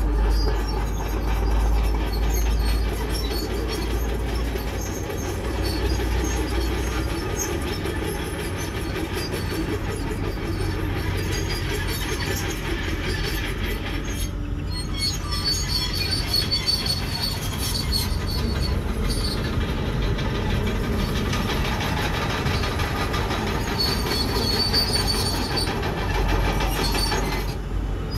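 Komatsu D51PX bulldozer running under load, its engine rumbling and its steel tracks clanking and squealing, with the squeal rising in places. The sound has a brief dip about halfway through.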